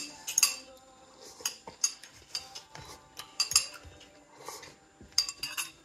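Close-up eating sounds: chewing and wet mouth clicks from a mouthful of snow pea and rice noodles, with light clicks of wooden chopsticks against a plastic takeout container. The clicks come scattered and irregular.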